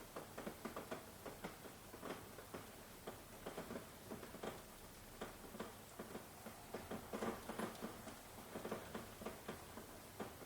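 Rain with drops tapping irregularly, several taps a second, over a soft steady hiss.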